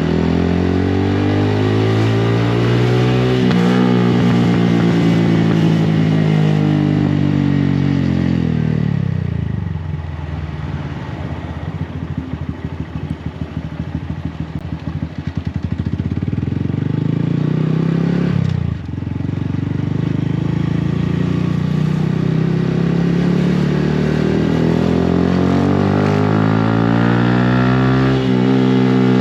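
Honda Grom's 125 cc single-cylinder four-stroke engine through a Yoshimura exhaust, riding along with the revs rising and falling through the gears. About a third of the way in, the revs fall to a low, uneven putter for several seconds. They then climb, dip sharply at a shift about two-thirds in, and build again as the bike accelerates.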